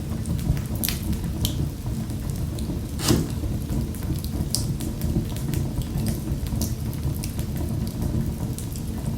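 Fireplace fire crackling: a steady low rumble with scattered sharp pops, the loudest about three seconds in.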